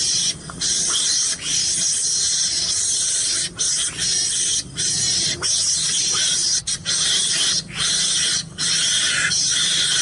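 Trapped mongoose giving harsh, continuous hissing screeches, broken by short pauses about once a second.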